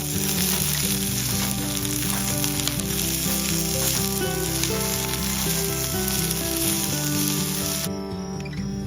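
Food frying in a pan with a steady, loud sizzling hiss that cuts off suddenly near the end, over background music.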